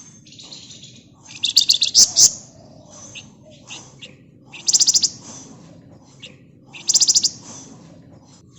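Flamboyan (wergan) songbird calling: three bursts of rapid, closely packed high trilling notes, the tight rattling 'ngebren' delivery, with short single chirps in between.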